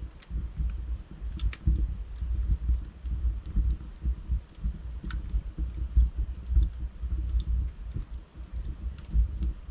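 Wood fire in a fireplace crackling: scattered sharp pops and snaps over a continual low rumble.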